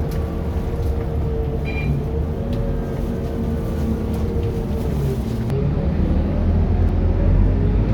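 Scania K230UB Euro 5 city bus's diesel engine running, with a steady whine that glides down and fades about five seconds in as the low engine sound grows louder. A brief high tone sounds just under two seconds in.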